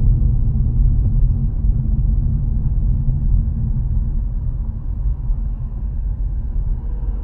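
Steady low rumble of a car driving, heard inside the cabin: tyre and engine noise, a little quieter in the second half.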